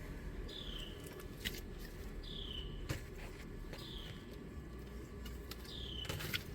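A bird repeating a short, falling call about every second and a half, with a few faint clicks and taps.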